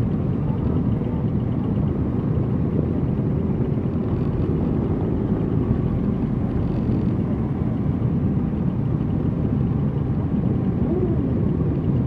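Motorcycle engines running steadily at low parade pace, a dense, even rumble of many bikes together with no clear revving.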